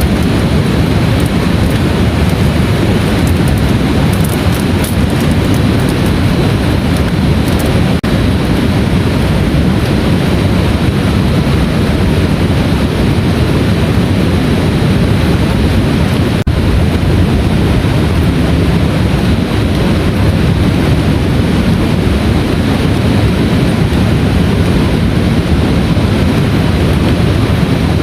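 Heavy rain pouring steadily, a dense, even rush of noise.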